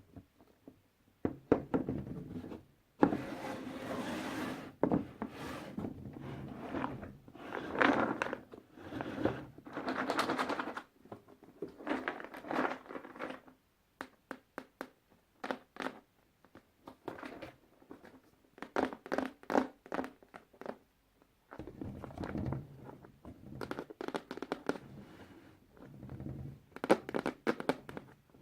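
Puzzle pieces being handled: rustling, scraping and light tapping in irregular bursts, with short pauses between them.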